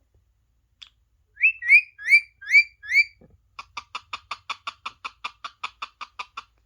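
Parrot calling: five short rising whistles in quick succession, then a fast run of clipped chirps, about six a second, for nearly three seconds.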